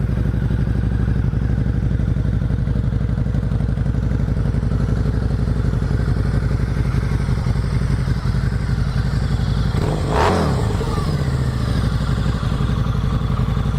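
2009 Harley-Davidson V-Rod's fuel-injected 1250cc liquid-cooled V-twin idling steadily through its factory exhaust, with one quick blip of the throttle about ten seconds in that rises and falls back to idle.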